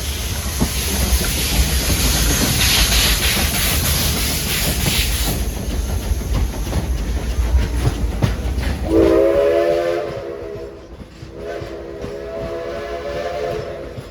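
Steam locomotive working, with a loud steam hiss over a low rumble that dies away, then two blasts of its steam whistle near the end: a short one, then a longer one of about two and a half seconds.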